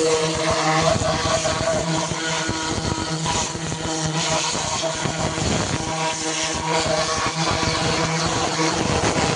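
Pressure washer running steadily, its motor humming at a constant pitch under the hiss of the spray.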